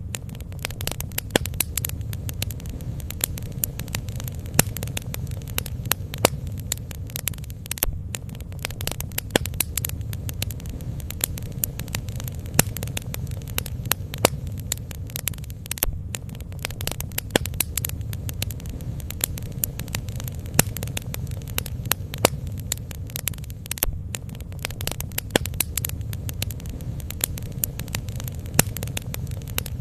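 Bonfire burning: wood crackling with sharp, irregular pops over a steady low rumble.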